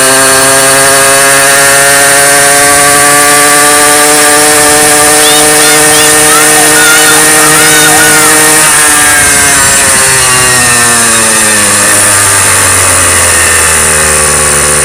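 Motorcycle engine running under way, its pitch holding steady and rising slightly, then falling off from about nine seconds in as it slows, and settling at a lower, steady note near the end.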